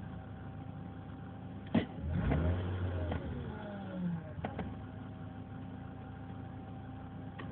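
BMW 328i's M52 straight-six idling, with a short rev about two seconds in that falls back down to idle, and a sharp click just before the rev.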